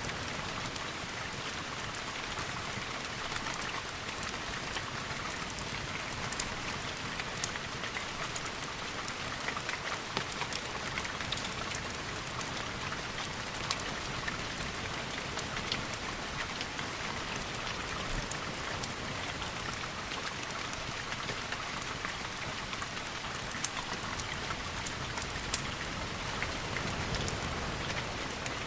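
Steady rain falling on a surface, with scattered sharp drip-like ticks through it, as in a storm ambience mix of rain on windows.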